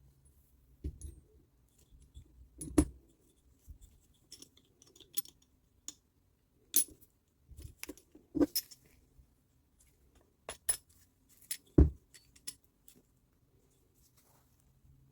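Irregular metallic clinks and clicks of small metal parts and hand tools being picked up, set down and fitted, with several louder knocks and a quiet stretch near the end.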